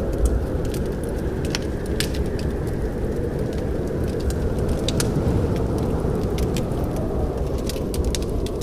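Wood fire crackling in a fireplace: irregular sharp pops and snaps, several of them close together near the end, over a steady low rumble.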